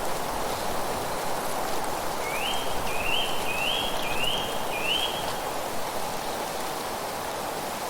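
Steady rushing of wind through leaves. A bird calls a run of five quick upslurred notes, starting about two seconds in.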